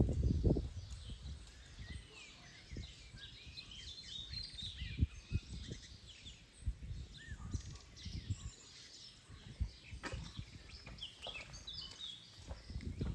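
Songbirds calling in the background, many short chirps and trills, mixed with a few low thumps and rumbles close by, the loudest about five seconds in.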